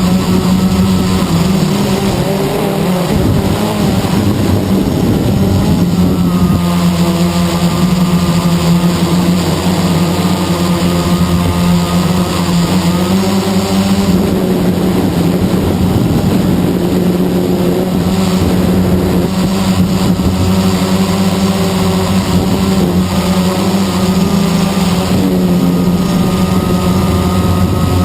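Blade 350 QX quadcopter's electric motors and propellers running in flight: a loud, steady, pitched hum whose pitch shifts slightly now and then.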